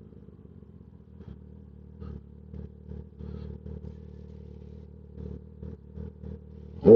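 Kawasaki ZX-10R inline-four motorcycle engine running steadily while riding. Right at the end comes a sudden loud burst that rises in pitch.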